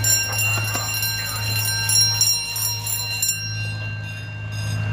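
A bell ringing in rapid strokes over a steady low rumble. The ringing stops about three seconds in while the rumble carries on.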